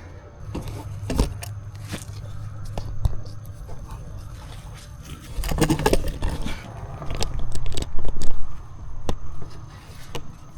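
Scraping, with scattered knocks and clatters of things being handled and moved about, loudest in a run of knocks in the second half.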